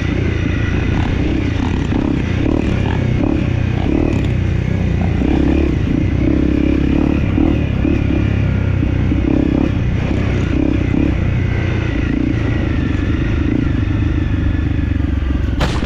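Off-road dirt bike's engine running while riding, the sound swelling and easing with the throttle, and a single sharp knock near the end.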